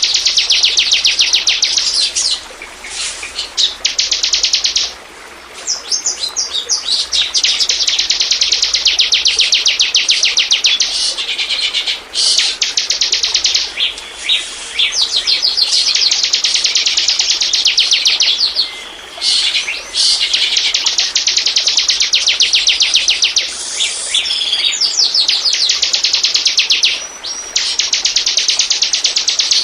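Ciblek (bar-winged prinia) singing: long, fast runs of sharp, rapidly repeated chirps, each run lasting several seconds with short breaks between them. This is the loud, insistent song used as a pancingan lure to draw in and provoke other ciblek.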